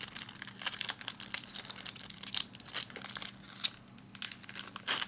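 Crinkling and tearing of a trading-card pack wrapper being opened and handled, in a quick run of irregular crackles, over a faint steady hum.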